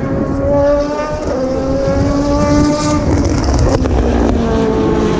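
Racing car engines running at a steady, slowly rising pitch as cars pass one after another, with a change to another car's engine note about three seconds in.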